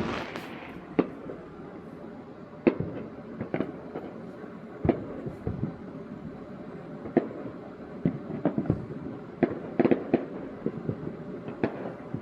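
Fireworks going off: scattered, irregular sharp bangs and pops, with a quicker run of pops about ten seconds in.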